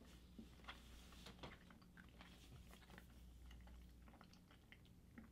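Faint chewing of Swedish Fish gummy candy: scattered soft mouth clicks over near silence.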